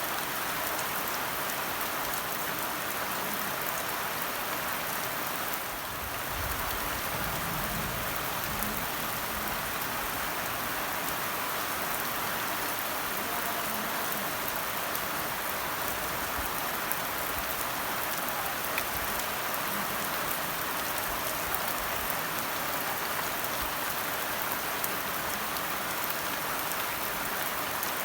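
Steady rain falling on a surface, an even hiss with scattered drop ticks, briefly softer about six seconds in.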